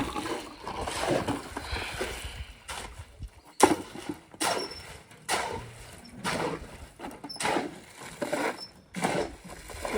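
Hand tools knocking and scraping on a block-laying site, a sharp hit about once a second from a few seconds in.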